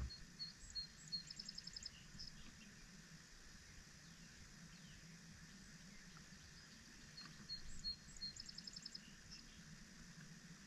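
A songbird singing the same short, high song twice, about seven seconds apart: a few separate notes and then a quick trill of repeated notes. Faint steady background rumble.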